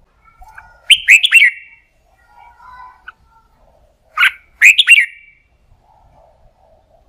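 Red-whiskered bulbul singing: two loud phrases of quick, sweeping whistled notes about three seconds apart, with softer chattering notes between them.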